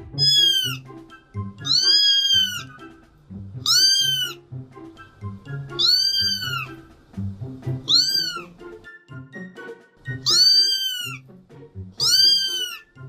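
A cat meowing over and over, seven high-pitched meows about two seconds apart, each rising then falling in pitch, over background music with a steady beat.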